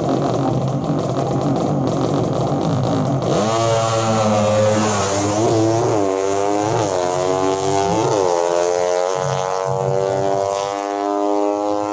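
Sleep-engine underbone drag-racing motorcycles: engines running roughly for about three seconds, then launching and accelerating hard. The pitch climbs and drops sharply at each of about three gear changes, then holds high as the bikes run flat out.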